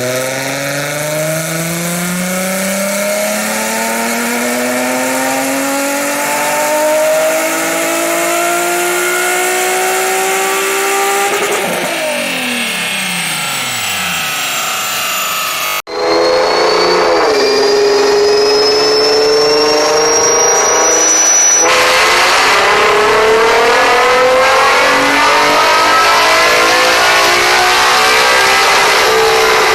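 Nissan 370Z's 3.7-litre V6 accelerating, its exhaust note rising steadily through a long pull and then dropping away after about 11 seconds. After a sudden cut about 16 seconds in, the engine holds a steady pitch with a thin high whine rising above it, then climbs again in another hard pull.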